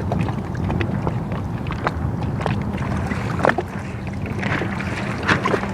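Water rushing and slapping against the hull of a 29er sailing dinghy under way, with wind buffeting the microphone and scattered sharp slaps.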